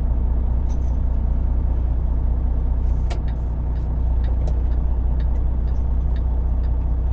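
Semi truck's diesel engine running steadily, heard from inside the cab as a constant low drone with road noise, and a few light clicks from the cab.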